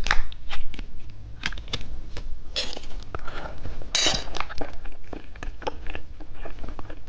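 Plastic candy packaging being handled: a run of small clicks and taps, with two short crinkling rustles about two and a half and four seconds in.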